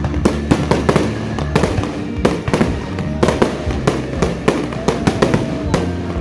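Fireworks display going off in quick succession: a dense run of sharp bangs and crackles, several a second, over music.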